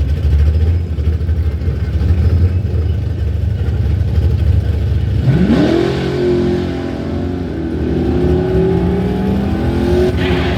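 Drag-racing engines rumbling at the starting line, then about five seconds in an engine launches: its note climbs sharply and keeps rising in stages as the vehicle accelerates down the strip.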